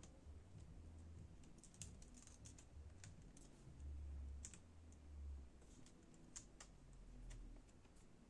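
Faint, irregular small clicks and taps from laptop keyboard parts being handled, with a few dull low thumps.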